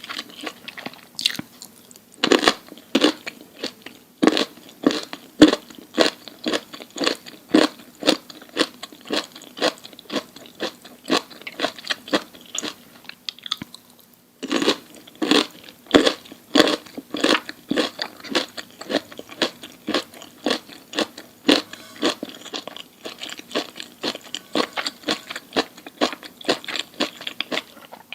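A person chewing crunchy food close to the microphone in rapid, crisp crunches, with a brief pause about halfway through.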